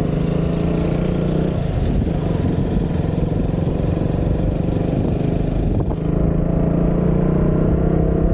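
Motorcycle engine running at a steady speed while being ridden, its pitch holding even throughout.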